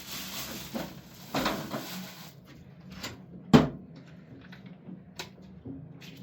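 Handling noises: a hissing rustle for about the first two seconds, then a few sharp knocks, with one loud thump about halfway through.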